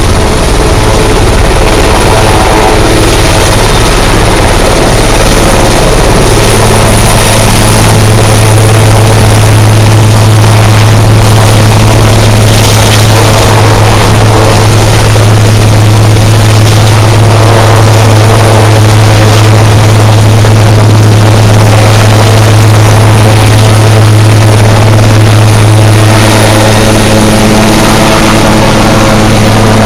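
Helicopter running loud and steady at close range, its rotor and engine holding one even pitch.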